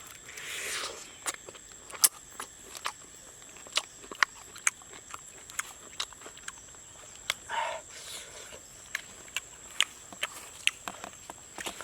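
Close-up eating sounds: many sharp, irregular clicks of chewing and lip smacking, with two short louder bursts, one about half a second in and one at about seven and a half seconds.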